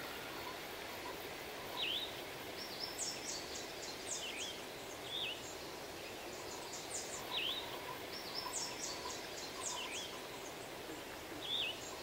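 Wild birds calling over a steady background hiss. A short, sharp down-and-up chirp repeats about once a second, and four runs of rapid high twittering come about two seconds apart.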